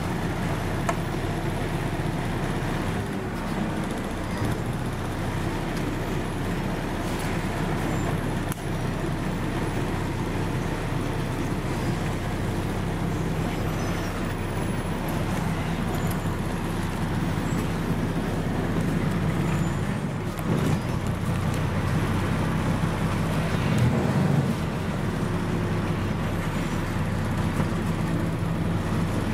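Scania CN113CLL city bus running on its Scania DSC 11.71 diesel engine, a steady low engine note with road noise, a little louder for a few seconds past the middle.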